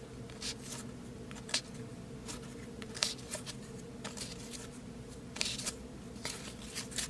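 Football trading cards being handled and slid against one another: a scatter of short, soft clicks and swishes over a faint steady hum.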